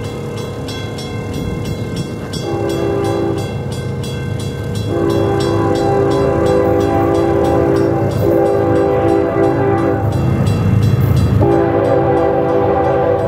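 Locomotive air horn sounding several blasts in a chord, the longest lasting about three seconds, over the steady rumble of a passing train.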